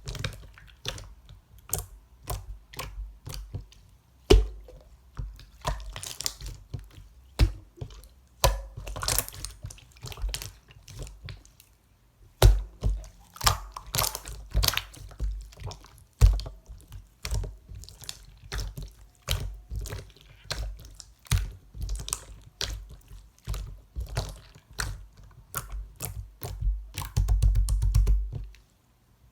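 Clear sky-blue slime being squished and pressed by hand, giving a steady run of irregular sticky clicks and small wet pops, with a quick burst of clicks near the end.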